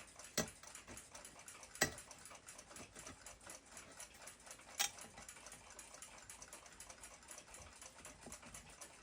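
Rapid, steady ticking of a Junghans ships clock movement running on its platform escapement, faint, with three sharper, louder clicks about half a second, two seconds and five seconds in.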